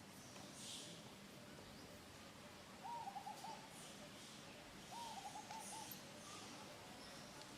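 Two short hooting bird calls about two seconds apart, each a quick run of three or four notes, over faint background hiss.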